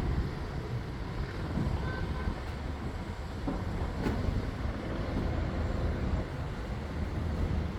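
Motorised watercraft running at speed: a steady low rumble with rushing noise over it.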